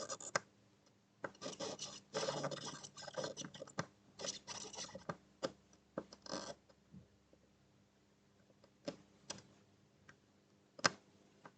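Soldering iron tip being dragged across the pins of an HDMI port, faint intermittent scratching and rubbing of metal on metal in short strokes. The scratching thins out after about six seconds into a few light clicks, with one sharper click near the end.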